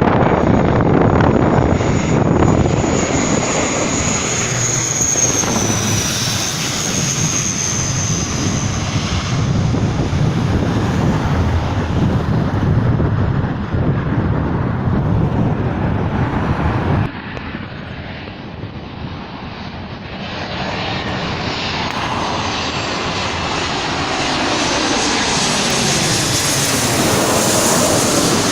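Airliners landing low overhead: loud engine noise with a high whine that falls slightly in pitch as one passes. The sound drops off suddenly partway through, then another aircraft's engines build up again toward the end.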